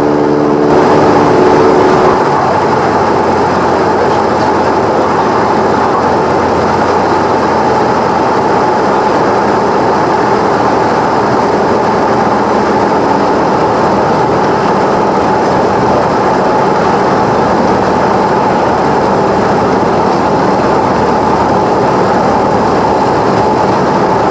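Cessna 172's piston engine and propeller running steadily in flight, heard from inside the cabin as a loud, even drone with a steady hum.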